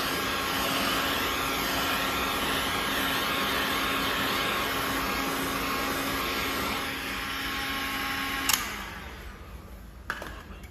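A small electric fan motor running steadily, then switched off with a click about eight and a half seconds in.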